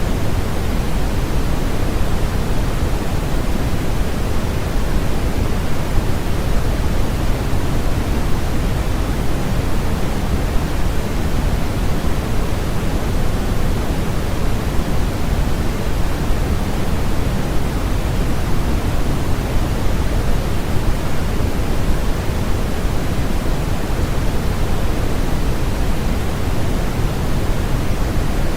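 Steady, unchanging synthetic noise for a sleep aid, weighted toward the low end so that it sounds like a deep hiss rather than a bright one.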